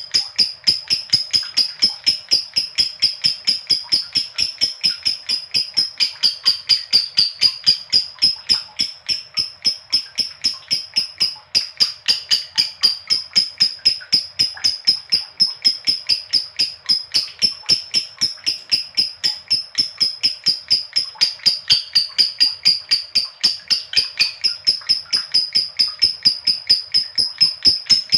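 Lovebird giving a long 'ngekek' chatter: a fast, unbroken string of shrill notes, about four or five a second, kept up without a pause. This long ngekek is the call that keepers prize in a lovebird in full song.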